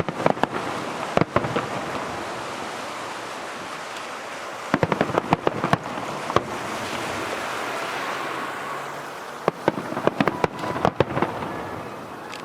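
Aerial firework shells bursting in three rapid clusters of sharp bangs, with a steady crackling hiss between them.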